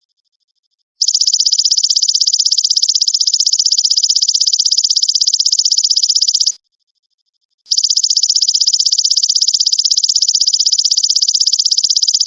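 Belalang emas (golden grasshopper) calling: a loud, high-pitched, rapidly pulsed buzzing trill in two long stretches, starting about a second in and breaking off for about a second past the middle.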